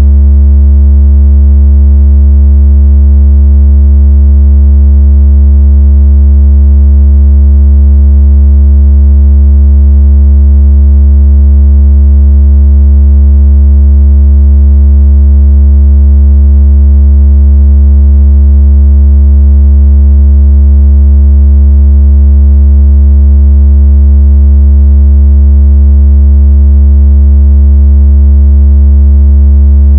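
A steady, very loud, deep synthetic tone with faint overtones, unchanging throughout. It is a speaker-cleaning tone, played to vibrate water out of a phone speaker.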